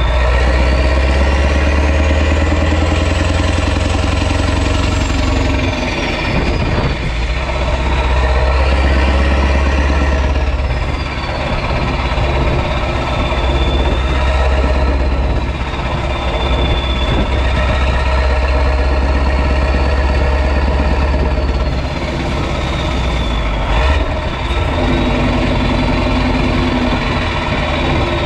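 Renault Magnum's 16.4-litre Mack E9 V8 diesel running loud through an open exhaust, its turbo whistle rising and falling several times over the deep engine note.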